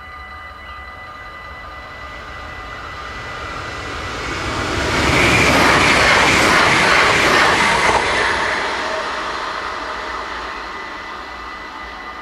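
Electric passenger train passing through a level crossing at speed. Its rush of wheels and air swells to a loud peak about five seconds in and fades away by the end. Throughout, the crossing's warning bells ring steadily.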